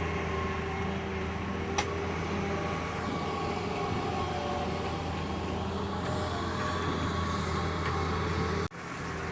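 Diesel engine of a Doosan 140W wheeled excavator running steadily, a steady higher whine over its hum, with a single short click about two seconds in. The sound cuts out briefly near the end.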